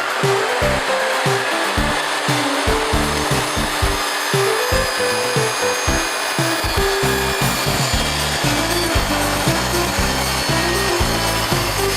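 A power tool cutting wood, a steady noise throughout, under background music with a moving bass line.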